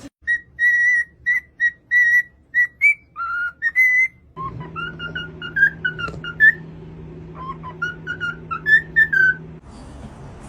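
A run of short whistled notes, mostly at one pitch with a few quick upward slides. About four seconds in, a steady hum comes in behind them and the whistling goes on, wavering between lower and higher notes.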